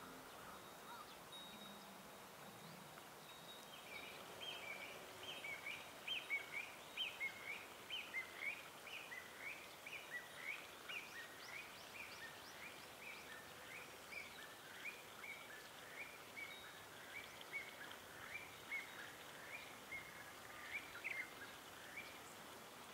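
Faint outdoor ambience with a bird calling: a long run of short, rising chirps, two or three a second, starting about four seconds in.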